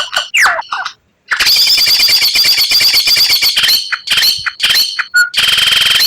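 White-rumped shama singing a fast, varied song. It opens with quick sweeping whistles, then about a second in a dense rapid-fire rattle (the 'tembakan') runs for about two seconds, followed by scattered sharp notes and a short buzzy trill near the end.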